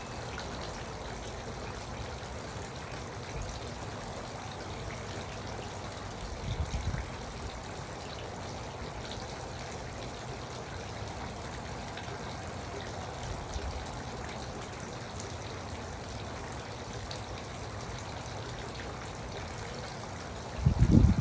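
Garden water fountain trickling and splashing steadily. A brief low thump comes about six and a half seconds in, and a louder low rumbling thump near the end.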